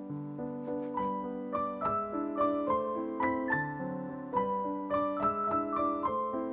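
Background solo piano music: a brisk classical tune of quick single notes over a lower accompaniment.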